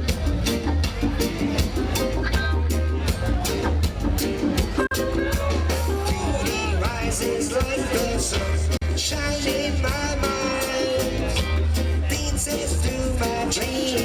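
Roots reggae band playing live, an instrumental stretch with a heavy, repeating bass line under regular drum hits.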